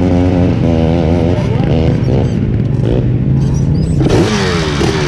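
Off-road engines running, a steady engine note at first; from about four seconds in an engine revs, its pitch swinging down and up.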